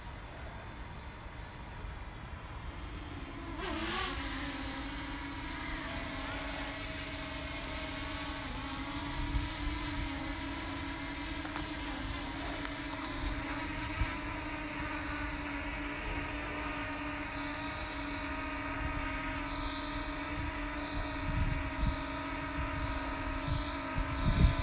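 DJI Mini 2 drone's propellers whirring, starting with a short rise in pitch about four seconds in and then holding a steady hum, with a higher whine that wavers up and down from about halfway through. Strong wind rumbles on the microphone, with gusts near the end.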